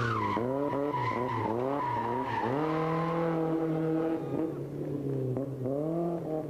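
Rally car engine revving hard in quick short rises and drops, then holding a steady pitch for over a second before rising again near the end, with tyre skid noise in the first couple of seconds.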